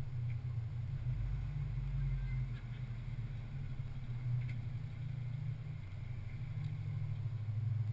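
Ford Focus's 2.0-litre inline four-cylinder engine idling with a steady low hum.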